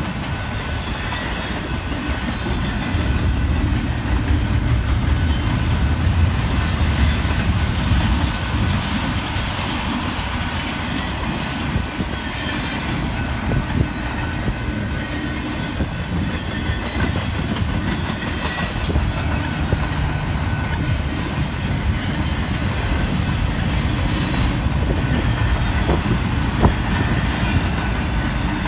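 Double-stack intermodal freight train rolling past, its well cars' wheels running on the rails in a steady, continuous rumble.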